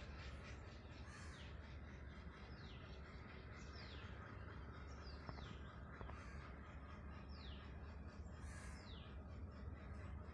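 A bird calling: a short, high falling call repeated every second or two. Beneath it runs a faint steady low rumble.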